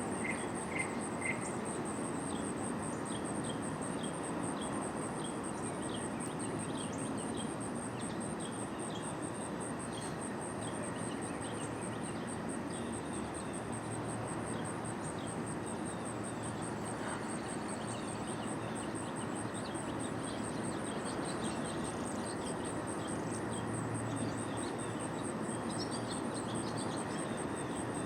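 An insect trilling steadily at a very high pitch, with rapid even pulses, over a background hiss. Many short, faint chirps are scattered through it, most of them in the middle stretch.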